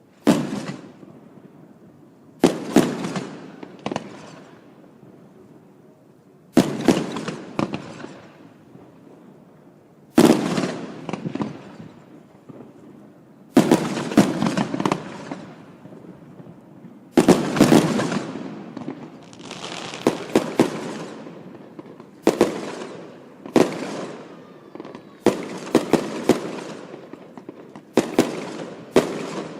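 Aerial firework shells bursting in a display: sharp bangs, each followed by a fading crackle. They come every few seconds at first, then faster and overlapping in the last third.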